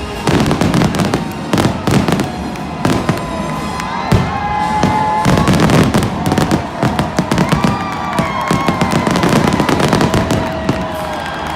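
Fireworks show: shells bursting in rapid, overlapping bangs and crackles throughout.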